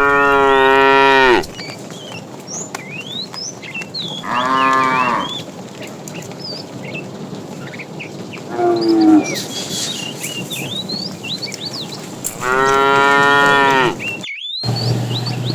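Cattle mooing: four long, drawn-out moos a few seconds apart, the third shorter and lower. Small birds chirp throughout at high pitch.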